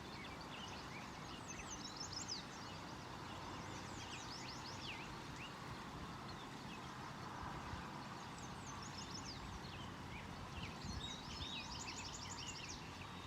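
Several songbirds singing in quick clusters of short, sweeping chirps, over the steady rush of a creek.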